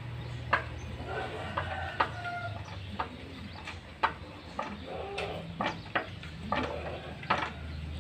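Sharp metal clinks and knocks of hand tools on engine parts, about ten at uneven intervals, with chickens clucking in the background over a low steady hum.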